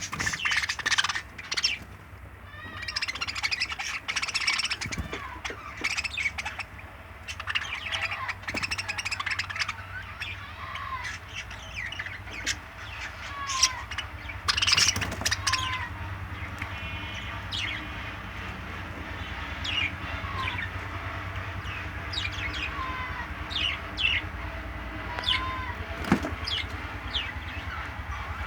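Tame pet birds chirping and calling, with many short chirps overlapping and a brief curved call recurring every second or two, over a steady low hum.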